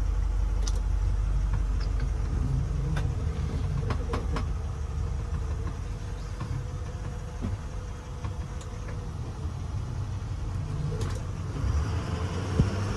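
The 2012 International TerraStar's MaxxForce diesel engine running steadily, with a few light clicks and knocks.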